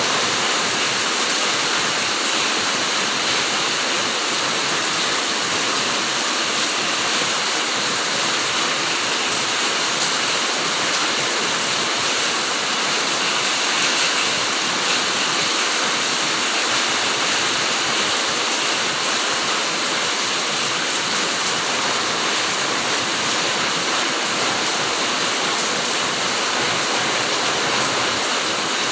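Steady rain falling in a garden, a continuous even hiss with no single drops or other events standing out.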